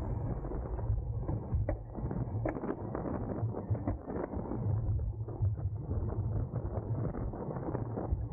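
Racing road bicycle in motion: wind rumbling on the microphone, with frequent clicking and rattling from the bike's drivetrain and frame.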